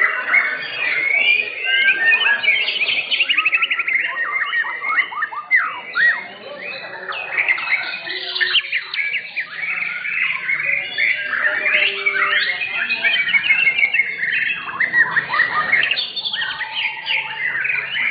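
White-rumped shamas (murai batu) singing at once: a dense, unbroken mix of sweeping whistles and quick runs of repeated notes.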